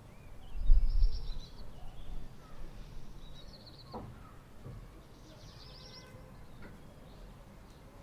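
Small songbirds singing short trilled phrases, one every couple of seconds, over steady outdoor ambience. A loud low rumble comes about a second in.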